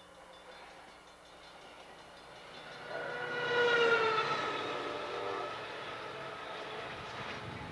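Passenger train going by: its rumble builds from about three seconds in, with a tone gliding down in pitch as it passes, then runs on steadily.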